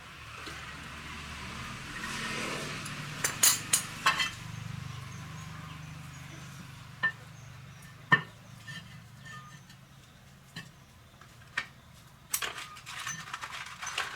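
Sharp metallic clinks and knocks: a cluster about three to four seconds in, a single one near eight seconds, and a quick run near the end. Under them is a low hum that fades after the first few seconds.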